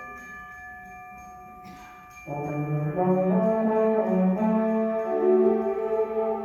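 High school concert band playing. A soft held chord fades away, then about two seconds in the brass section comes in loud with full sustained chords.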